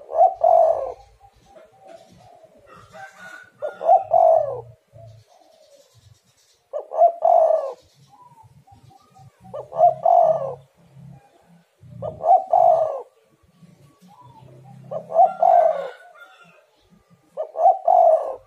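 Spotted dove (tekukur) cooing, repeating its multi-note call phrase about every three seconds, seven phrases in all.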